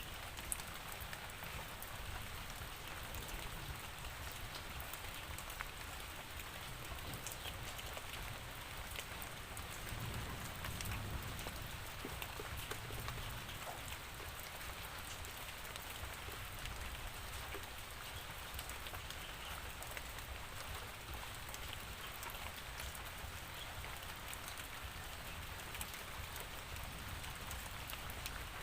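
Steady rain falling, with many individual drops ticking on a surface. A low rumble swells briefly about ten seconds in.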